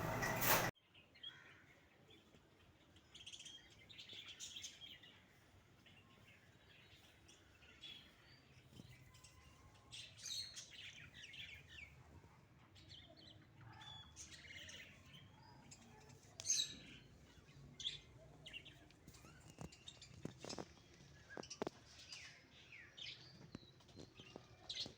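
Birds chirping, faint and scattered, in short high chirps, with a few sharp clicks about twenty seconds in. A louder, dense sound cuts off abruptly under a second in.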